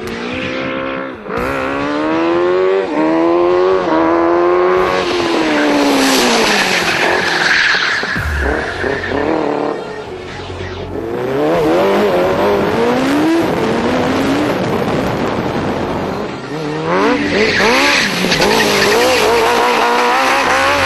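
Suzuki GSX-R1100 inline-four motorcycle engine in a kart, revving hard and shifting up. Its pitch climbs and drops several times.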